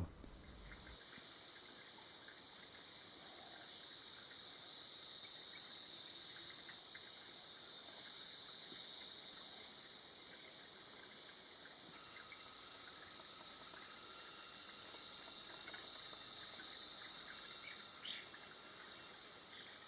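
Steady, high-pitched chorus of insects, unbroken throughout; a faint thin steady tone joins about halfway through.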